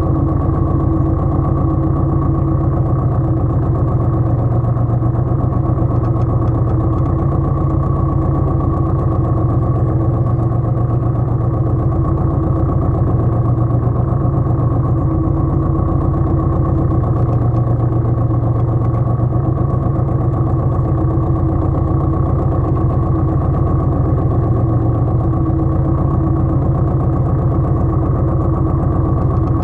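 Pasquali 980 EX tractor's engine running steadily.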